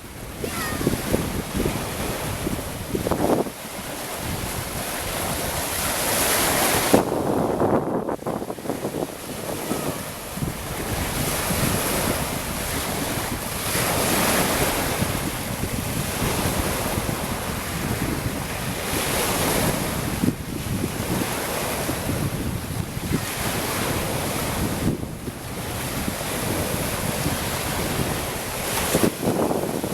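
Sea of Okhotsk surf washing onto the shore, the noise swelling and falling back every few seconds, with wind buffeting the microphone.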